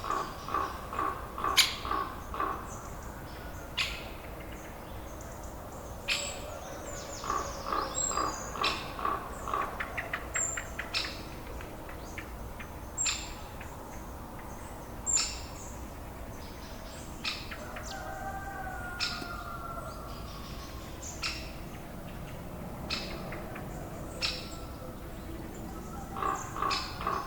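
Bird calls: bursts of rapid repeated calls, about five a second, with short high chirps and scattered sharp clicks.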